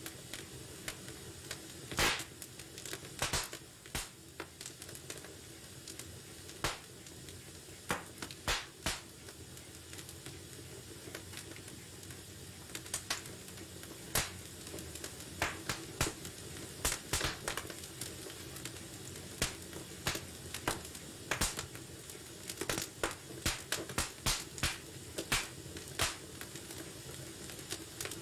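Wood fire in a fireplace crackling and popping at irregular intervals over a low steady hiss, the pops coming more often in the second half.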